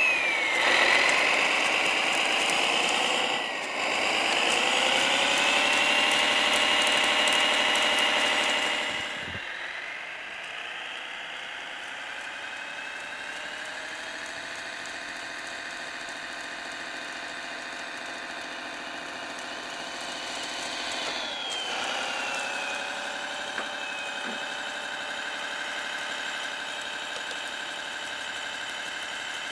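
Servonaut SMX sound module in a Kyosho Blizzard radio-controlled snowcat, playing a simulated diesel engine through the model's speaker and revving with the throttle. It runs high and loud at first, drops to a lower, quieter idle about nine seconds in, climbs again, then falls back about twenty-one seconds in.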